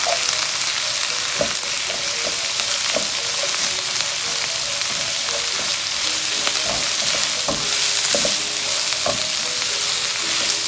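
Onions and ginger sizzling in hot oil in a wok on high heat, with a steady hiss, while a utensil stirs them, scraping and knocking against the wok every second or so.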